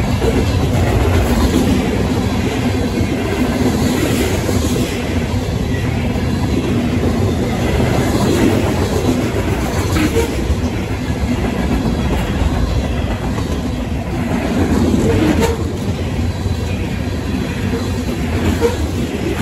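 Freight cars of a mixed freight train rolling past at close range: a steady noise of steel wheels on rail, with a few sharp clicks here and there.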